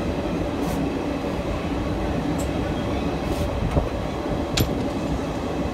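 Passenger train running, heard from an open coach doorway: a steady rumble of wheels and running gear, with a few sharp clicks.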